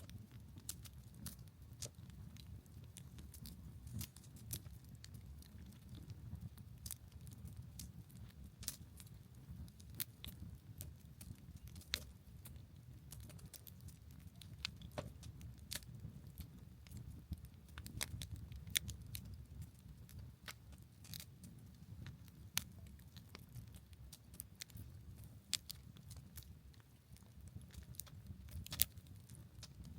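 Campfire burning, with irregular sharp crackles and pops from the wood over a low steady rumble.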